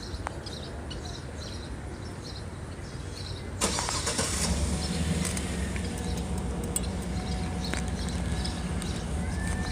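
A motor vehicle's engine starts suddenly about three and a half seconds in and then runs steadily with a low, even hum. Before it, faint repeated high chirps over a low background rumble.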